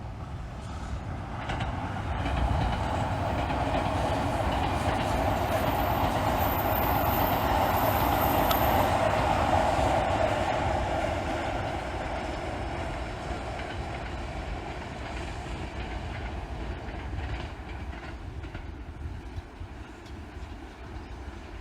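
287 series electric limited express train passing, its noise swelling over the first few seconds, loudest about eight to nine seconds in, then slowly fading away.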